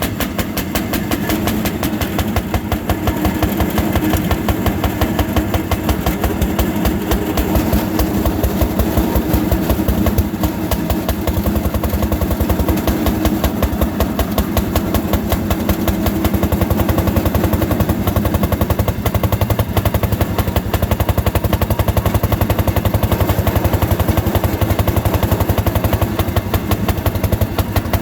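Fairmont M-19 railroad motorcar's single-cylinder two-stroke engine running hard under load on a climb, a fast, steady train of firing beats.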